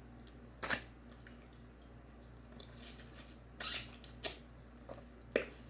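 A few short, sharp eating noises close to the microphone: four brief bursts over about five seconds, above a faint steady low hum.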